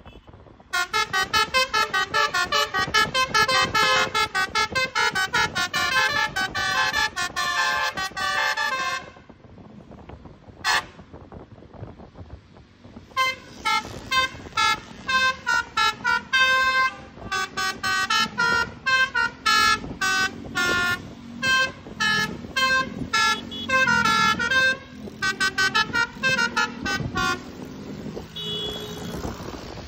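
Bus 'basuri' telolet horn, a multi-trumpet musical air horn, playing a fast tune of short notes for about eight seconds. After a pause of a few seconds it plays a second, longer run of notes.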